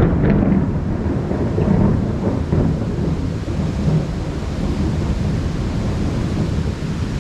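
Thunder rumbling low and rolling over a heavy downpour of rain, swelling right at the start and again a couple of times before settling into a steady rumble.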